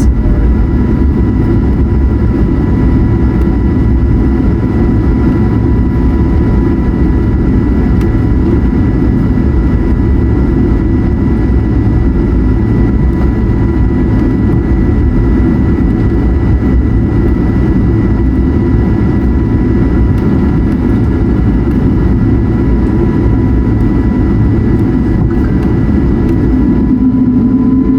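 Steady engine noise heard inside the cabin of an Airbus A220-100 while it taxis, its Pratt & Whitney PW1500G geared turbofans running. It is a deep rumble with a thin, steady whine over it.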